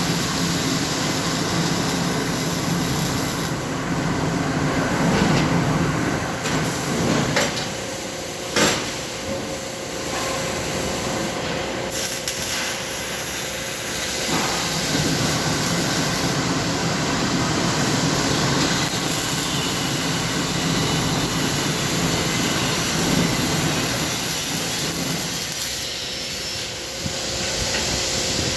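Arc welding on muffler parts: a continuous hiss and crackle with a low machine hum that fades and returns, and a few sharp clicks.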